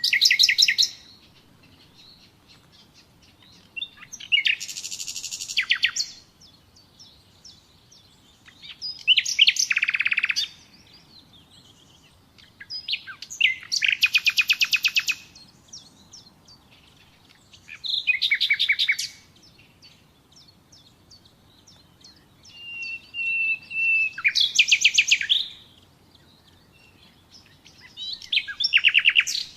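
Nightingale singing: short phrases of rapid repeated notes, one opening with a held whistle, separated by pauses of two or three seconds.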